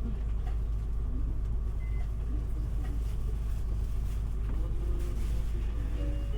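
Inside a city bus (Isuzu Erga diesel): a steady, deep engine and road rumble fills the cabin, with faint brief tones above it.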